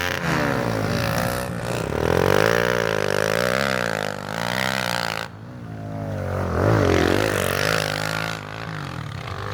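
Pit bike engine being ridden, its pitch rising and falling with the throttle. It drops away abruptly about five seconds in, then builds up again.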